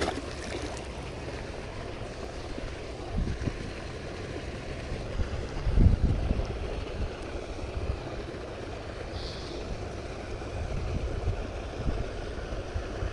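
Wind buffeting an outdoor microphone: a steady low rumble with stronger gusts about three and six seconds in.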